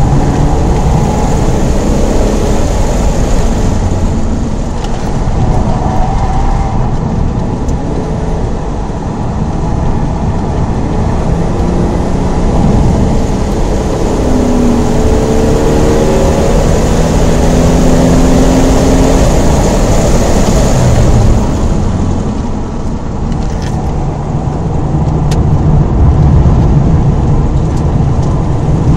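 Holden VT Commodore's 3.8-litre Ecotec V6 driven hard, heard from inside the cabin with heavy road and wind noise. Midway the engine note climbs steadily for several seconds as the car accelerates, then eases off about 21 seconds in before building again.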